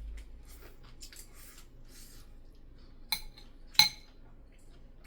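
Cutlery clinking against a dish twice, a sharp ringing clink about three seconds in and a louder one just under a second later, amid faint handling sounds of eating.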